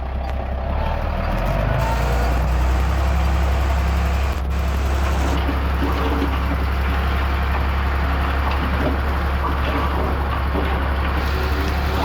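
Heavy diesel earthmoving machinery running steadily under load, its engine growing louder over the first two seconds and then holding level.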